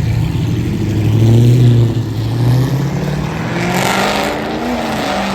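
Car engine running and revving, its pitch wavering up and down, loudest about a second and a half in, with a rushing noise joining it about three and a half seconds in.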